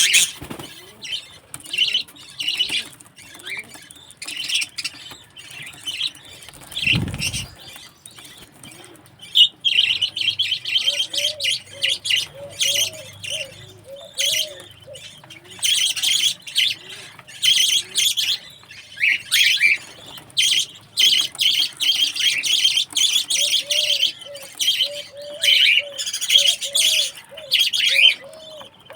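Budgerigars chirping and chattering, scattered at first and then a dense, continuous warble from about ten seconds in. A dull low thump about seven seconds in.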